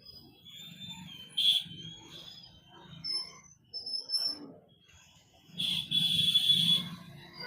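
Congested road traffic, engines running low underneath, with short shrill whistle blasts over it: a brief one about a second and a half in and a longer, louder one about six seconds in.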